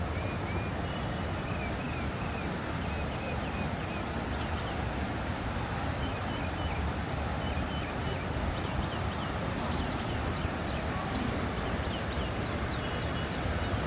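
Steady outdoor rushing of wind and sea, heavy in the low end with wind buffeting the microphone. Faint short high chirps come again and again over it.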